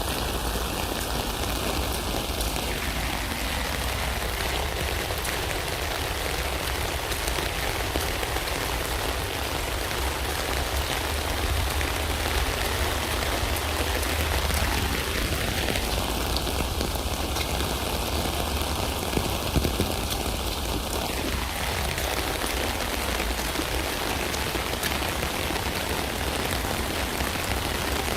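Steady rain falling on a tent, a dense, even patter of drops on the fabric that holds at one level throughout.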